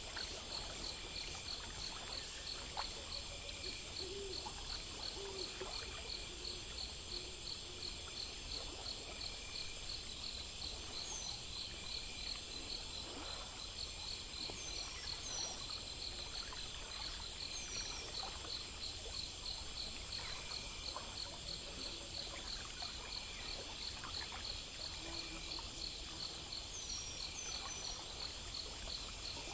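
Night nature ambience: insects chirping in a fast, steady rhythm over a soft even hiss, with a few short high chirps and a few low hoots.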